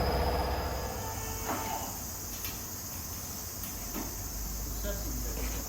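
An old car's engine idling, shut off about half a second in. After that, a steady high chirring of crickets, with a few faint knocks.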